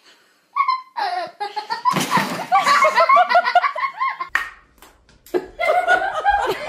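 People laughing hard in repeated bursts, with a short break a little after four seconds in.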